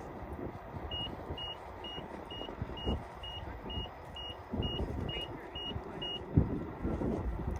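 Wind buffeting the microphone and rumble from riding an electric unicycle over cracked pavement, with a row of about twelve short, high electronic beeps at an even pitch, about two a second, starting about a second in and stopping near six seconds.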